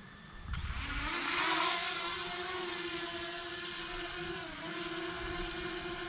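Hubsan Zino Mini Pro drone's motors spinning up for takeoff about half a second in, then a steady propeller whine. The whine dips briefly in pitch about four and a half seconds in.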